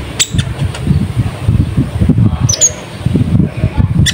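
Konin (kolibri ninja, a sunbird) chirping: a few short, sharp high notes, with a cluster about two and a half seconds in, over a steady low rumble.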